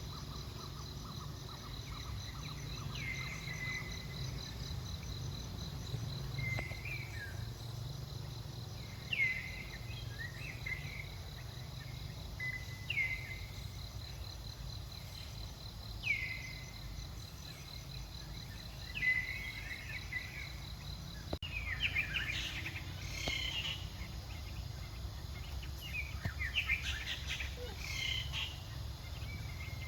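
Outdoor forest ambience: a steady insect trill under a low rumble, with a short falling chirp repeating every few seconds, then busier, overlapping chirping in the last third.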